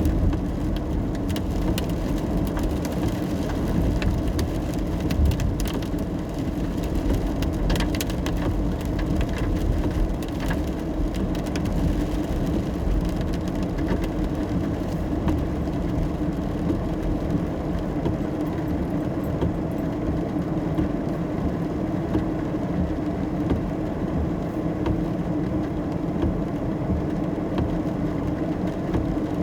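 Steady road and engine noise of a car driving in the rain, heard from inside the car. Scattered raindrop ticks during roughly the first twelve seconds, then mostly the even drone of the drive.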